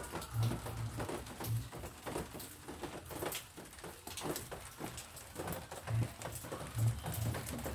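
Rain pattering on plants, with irregular sharp drop ticks.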